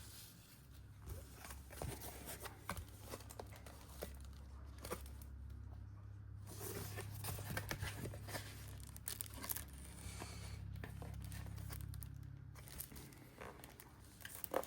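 Faint crinkling, scraping and tearing of cardboard and plastic packaging as promo cards are slowly worked free of the tabs in a trading card collection box insert, with scattered small clicks. A low steady hum runs underneath.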